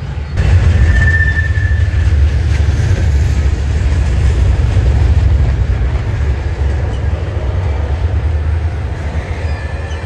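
Freight train rolling past: a steady, loud rumble of railcars on the track, with a brief high wheel squeal about a second in and another near the end.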